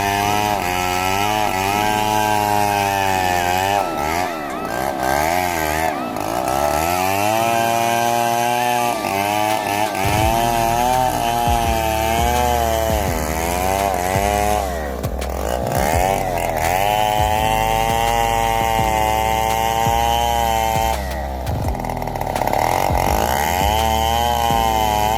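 Chainsaw running, its engine pitch repeatedly dipping and rising again, as when the chain bites into wood and the engine bogs and recovers under load.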